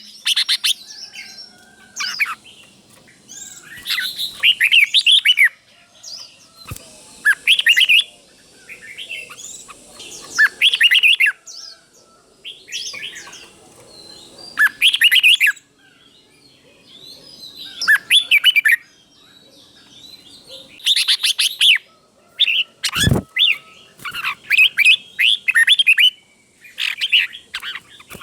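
Red-whiskered bulbul singing short, clear warbled phrases every two to three seconds, in the doubled-phrase style keepers call 'bern'. A single sharp knock about 23 seconds in.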